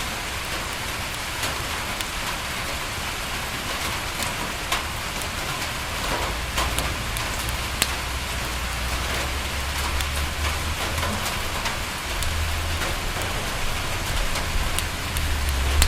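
Steady rain falling, an even hiss dotted with many small sharp ticks. A low rumble swells in the second half.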